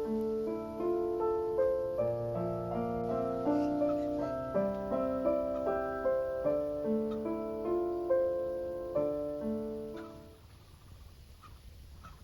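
Background piano music: a slow melody of held notes that fades out about ten seconds in, leaving faint low-level sound.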